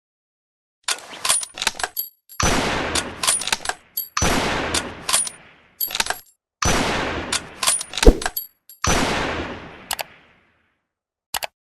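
Rifle firing four shots about two seconds apart, each one trailing off over a second or so, with sharp clicks between the shots.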